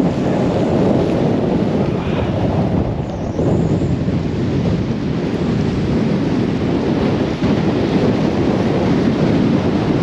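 Storm-force wind buffeting the microphone in a steady, heavy rumble, with driving rain.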